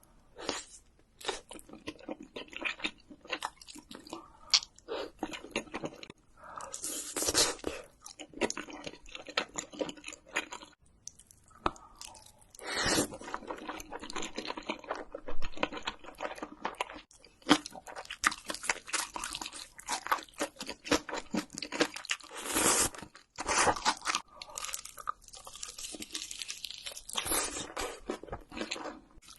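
Close-miked crunching and chewing of spicy fried seafood, with repeated sharp crackly bites and wet chewing in an uneven rhythm.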